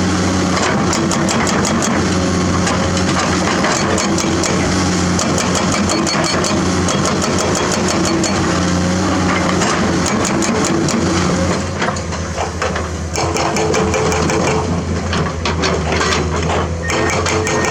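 Komatsu hydraulic excavator's diesel engine running steadily, with many short clicks and knocks over it as the machine works. The engine eases slightly about twelve seconds in.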